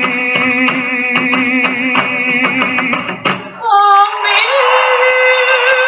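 Fado singing: women's voices hold a long note with vibrato over steady, evenly spaced guitar strokes. About three and a half seconds in the guitar stops and the voices move onto a new long-held note.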